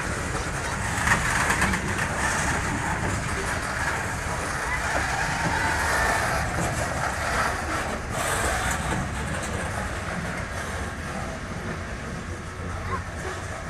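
Train rolling past, a steady rumble with wheel-on-rail noise, easing off slightly near the end.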